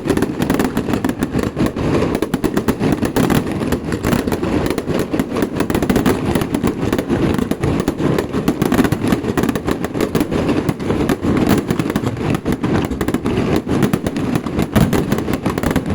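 Festival firecrackers going off in a dense, continuous barrage, many sharp bangs a second merging into a rattling crackle.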